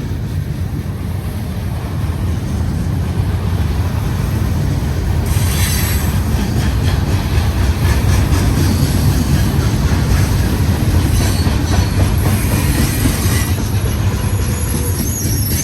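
Union Pacific manifest freight train rolling past, a steady deep rumble of wheels on rail. High-pitched wheel squeal comes in about five seconds in and keeps on.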